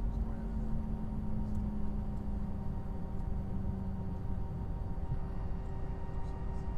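Steady low rumble of a parked airliner's systems, with several constant humming tones; a lower hum fades out about four seconds in.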